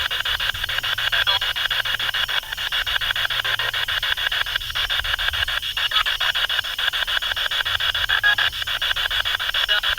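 Spirit box sweeping through radio stations: steady static hiss chopped by rapid, even clicks as it steps from station to station.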